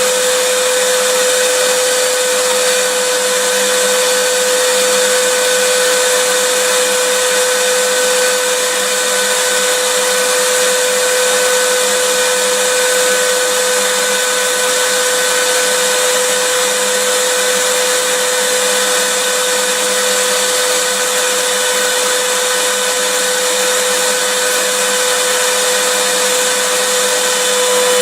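Vacuum cleaner running steadily, a constant whooshing motor noise with a hum near 500 Hz that does not change.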